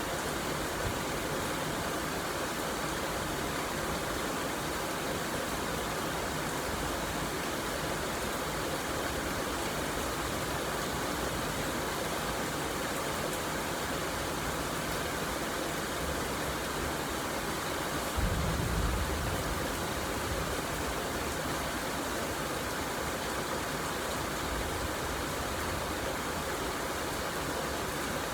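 Steady rain falling, an even hiss. About two-thirds of the way through there is a brief low rumble lasting about a second.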